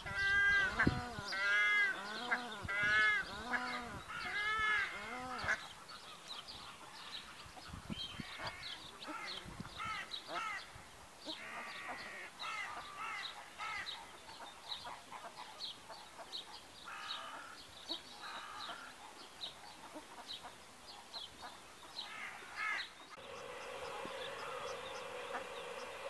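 Bird calls: a quick run of repeated rising-and-falling calls for about the first five seconds, then many short high chirps. A steady hum sets in near the end.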